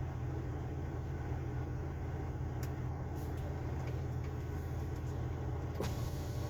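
Truck engine running with a steady low drone and road noise, with a few sharp clicks or rattles in the second half.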